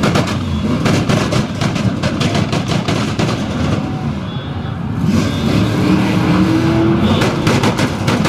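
Modified car engine revving hard with rapid exhaust pops and crackles, the engine pitch climbing about five seconds in before another burst of cracks.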